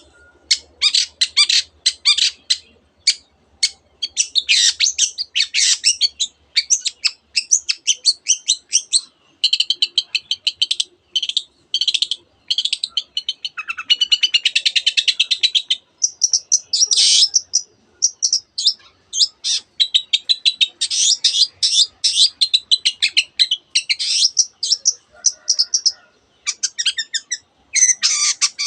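Long-tailed shrike singing hard: rapid runs of sharp, high chirps and whistles with brief pauses, including a dense trill about halfway through. The song is full of borrowed phrases, canary among them.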